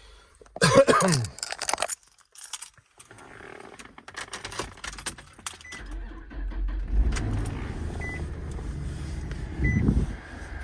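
A brief loud noise near the start, then keys jangling and rattling in the ignition, then the 2003 Nissan Pathfinder's 3.5 L V6 cranks and starts about six seconds in and settles into a low idle: a cold start after a month unused. A short warning chime beeps repeatedly over the running engine.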